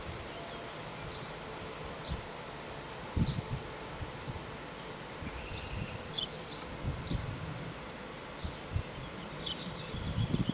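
Outdoor ambience: scattered short high chirps, one or two a second, over a steady hiss, with gusts of wind rumbling on the microphone near the start and again near the end.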